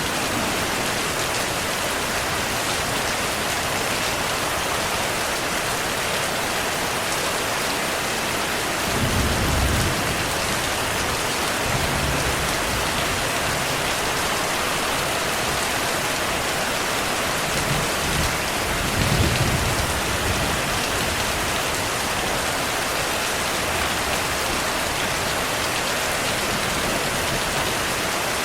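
Steady, dense rainfall. Twice, about a third of the way in and again about two-thirds through, a low rumble of distant thunder swells up under the rain.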